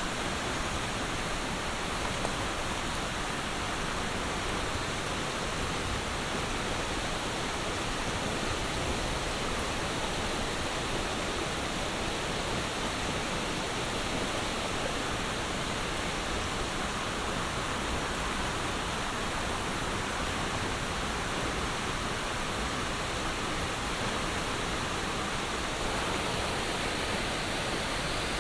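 Steady monsoon rain falling, an even hiss of water without a break.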